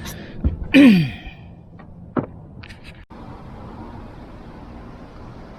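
A few light clicks and one short vocal sound from a person that falls in pitch, about a second in, followed by a steady faint hiss.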